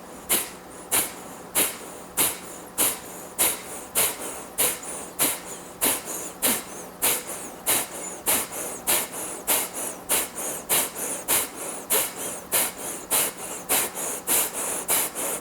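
Kapalabhati (breath of fire) breathing: a person's forceful, belly-driven exhales, each a short, sharp snapping puff of air, with the inhales passive and barely heard. The puffs come about every half second, quickening a little in the second half.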